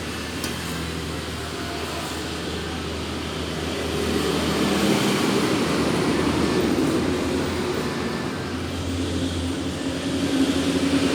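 Kawasaki Ninja 250 FI parallel-twin engine running through an R9 GP Series aftermarket exhaust, its note swelling about four seconds in, easing off, then rising again near the end.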